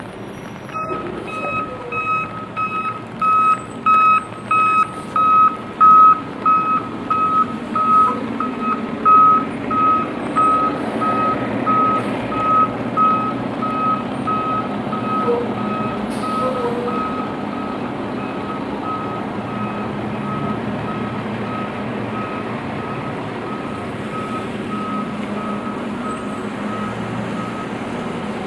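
A vehicle's reversing alarm beeping steadily, about two beeps a second. It is loud at first, then fainter but still going, over a steady hiss of rain and traffic.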